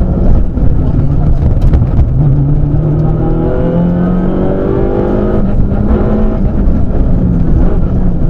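Citroën Saxo rally car's engine heard from inside the cabin under hard driving. The revs climb steadily for a few seconds, drop sharply about five and a half seconds in, then hold level.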